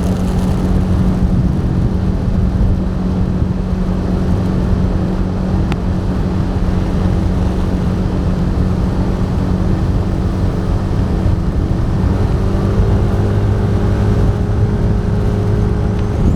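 Motor vehicle running at a steady pace, a continuous engine drone with road noise.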